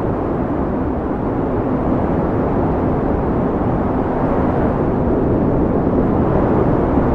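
Steady low wind rushing, deep and rumbling with little hiss, swelling slightly near the end.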